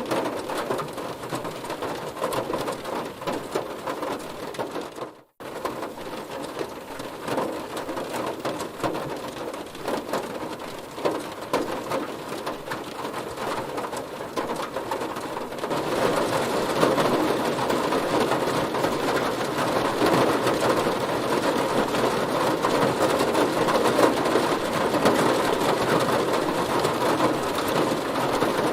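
Heavy rain pattering and drumming on a car's body, a dense hiss of many drops. It cuts out for a split second about five seconds in, then grows heavier a little past halfway.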